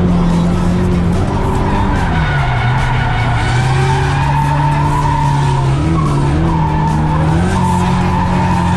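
Drift car engine held at high revs while the tyres skid. The engine pitch sags about two seconds in and climbs back up near the end.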